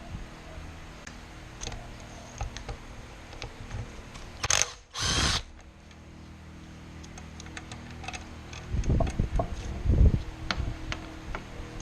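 Tool work on a car's throttle body: two short, loud bursts of a power tool about four and a half seconds in, among scattered clicks of metal parts, with a cluster of louder knocks near the end.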